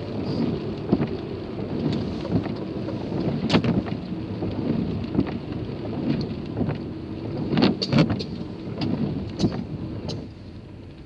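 Rain hitting a car, a dense steady patter with scattered sharper drop hits; it eases off near the end.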